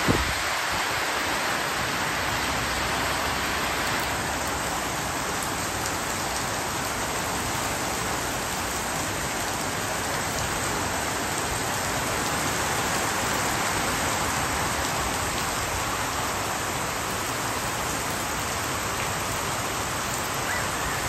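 Heavy rain falling steadily: an even, unbroken hiss of drops on leaves, roofs and wet pavement.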